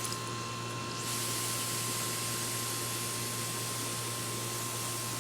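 Garden hose spraying water: a steady hiss that gets fuller about a second in.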